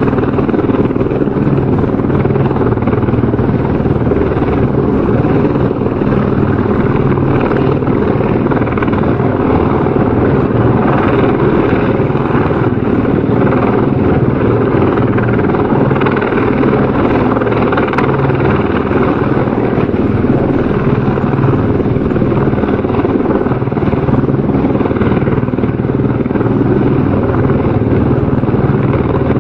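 Helicopter rotor and engine running steadily, a continuous dense rotor chop with a low hum, without letting up.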